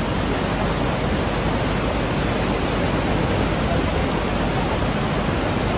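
Floodwater rushing, a steady even roar of water with no let-up.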